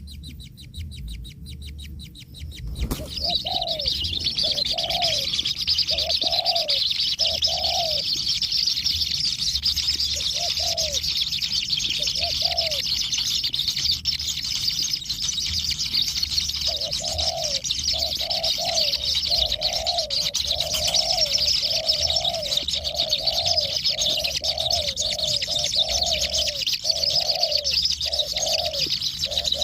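Bird calls: a short, low hooting note repeated over and over, sparse at first and then about two a second, over a steady high-pitched hiss. It starts about three seconds in.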